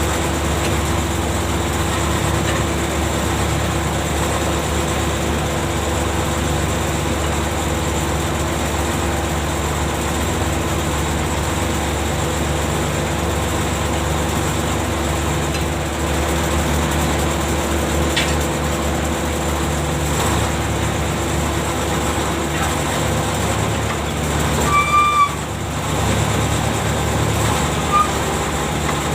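Heavy shipboard machinery running steadily: a low drone with a steady hum over it. Near the end there is a brief high-pitched squeal.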